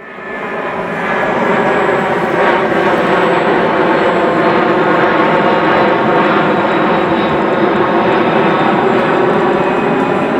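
Aircraft engine running with a steady, even drone of fixed pitch, fading in over the first second or so.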